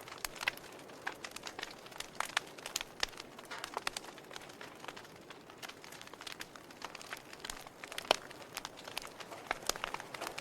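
Wood fire burning in a fireplace, crackling with frequent sharp, irregular pops over a soft hiss. One louder pop comes about eight seconds in.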